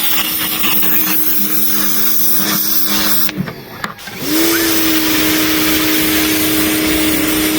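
An electric power tool's motor running at a steady high pitch. It shuts off a little over three seconds in, then starts again about a second later, spinning up before settling into a steady run.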